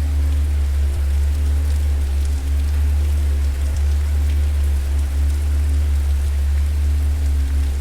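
Wood fire crackling: scattered small pops and snaps over a steady low rumble, with faint held tones underneath.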